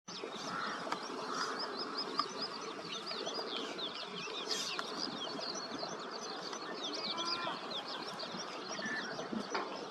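Many small birds chirping rapidly and continuously in short, high, quick notes over a steady background hiss, with a few lower whistled notes about seven seconds in.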